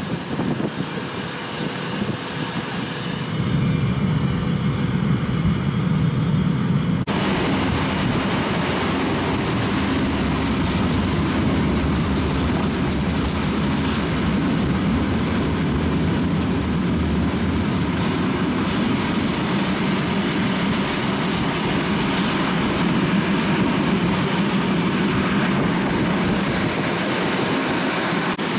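Flåm Railway train running, a steady low rumble of the carriage in motion. About seven seconds in the sound changes abruptly to a louder, brighter hiss over the rumble, which then holds steady.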